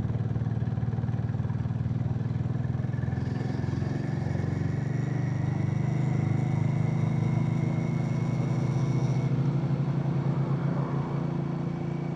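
Harley-Davidson X440's single-cylinder engine running steadily while the motorcycle is ridden along, its note swelling a little in the middle and easing off near the end.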